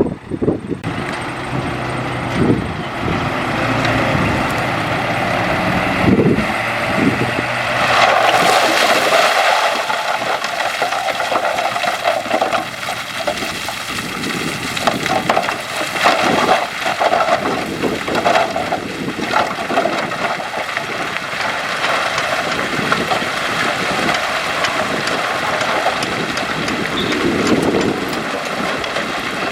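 Heavy earthmoving machinery running steadily, with scattered short knocks.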